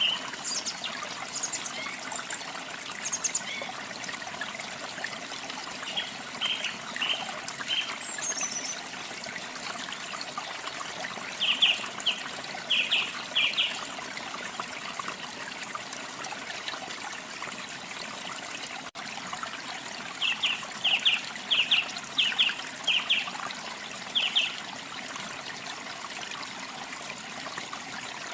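Steady rush of running water from a stream or small waterfall. Songbirds chirp over it several times, in runs of three to six quick short notes.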